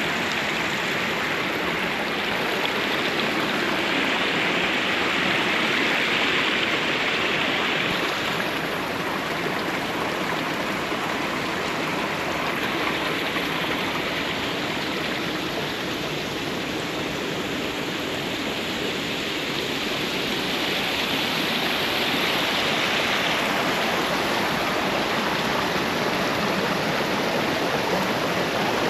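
Spring-fed stream water rushing and splashing steadily, the flow of the Sacramento River's headwater springs, swelling slightly now and then.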